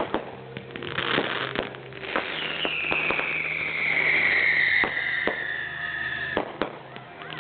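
Fireworks going off: scattered sharp pops and crackles, with a whistling firework starting about two seconds in. Its high whistle falls slowly in pitch for about four seconds, then cuts off.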